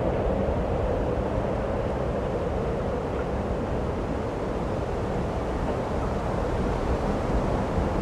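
Snowstorm wind blowing steadily, an even rushing noise with no breaks.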